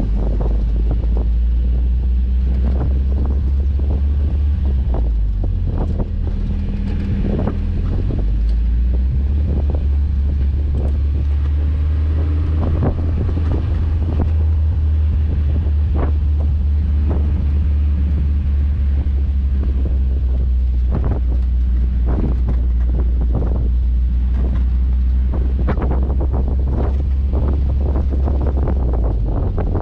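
Honda S2000 four-cylinder engine in a 1959 MGA running steadily, with a low, even note that shifts about five seconds in and again about eight seconds in. Heavy wind buffeting on the microphone throughout.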